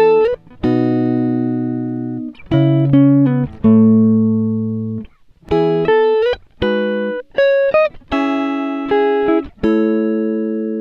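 Background music: a guitar plucking sustained notes and chords, each struck sharply and ringing out as it fades, with short pauses between phrases.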